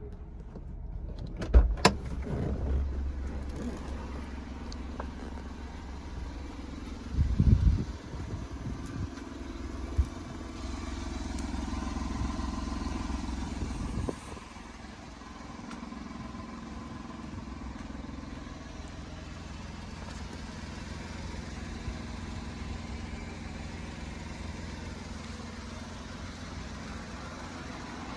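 Honda N-One's small three-cylinder engine starting and running. There are a couple of sharp clicks early on and a short loud burst about seven seconds in. Then the engine runs steadily, a little louder for a few seconds before settling lower about halfway through.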